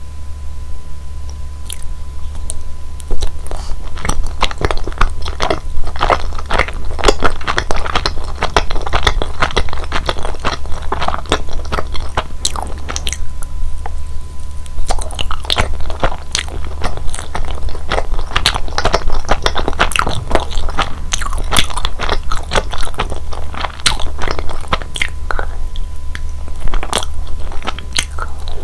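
Close-miked eating sounds of chewy mitarashi dango, glutinous rice dumplings in a sticky sweet-soy glaze: dumplings bitten off a bamboo skewer and chewed with wet, sticky mouth clicks. The chewing starts about three seconds in and goes on in irregular bursts.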